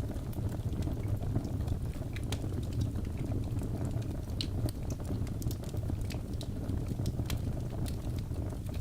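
Wood fire in a fireplace burning steadily with a low rumble of flames and frequent sharp crackles and pops of burning logs.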